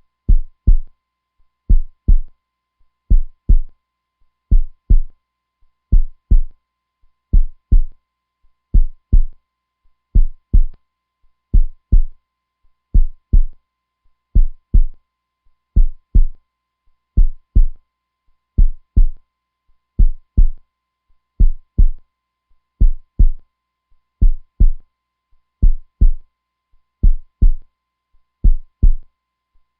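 Heartbeat sound: a steady, even rhythm of low double thumps (lub-dub), about one pair every one and a half seconds.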